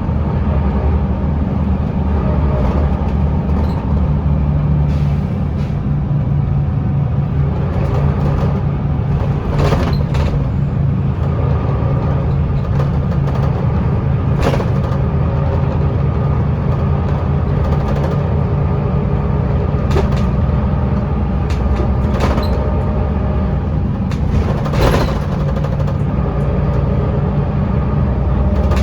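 Inside the cabin of a Scania L94UB city bus: the steady drone of its rear-mounted diesel engine under way, with scattered clicks and rattles from the body.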